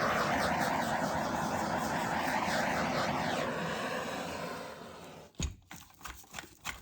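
Handheld butane torch running with a steady hiss, played over wet acrylic paint to bring up cells; it fades out about four to five seconds in. A few light knocks follow near the end.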